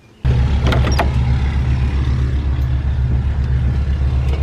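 Large diesel engine of heavy harvest equipment running steadily at a low, even drone. It cuts in suddenly just after the start, with a few clicks about half a second later.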